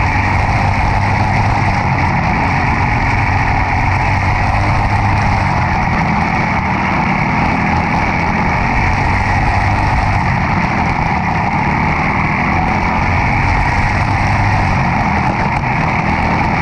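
A demolition derby car's engine running loud and steady, heard close up from a GoPro on the car.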